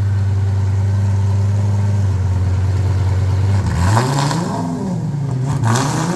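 Lamborghini engine running through a newly installed titanium slip-on exhaust: a steady idle, then from about three and a half seconds in several short blips of the throttle, the revs rising and falling, with a few sharp cracks from the exhaust. The revs are kept light, around 2,000 rpm, on a cold engine.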